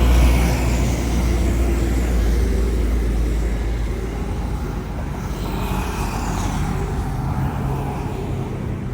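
Jet airliner's engines heard after takeoff as it climbs away: a steady, loud, low rumble that slowly fades.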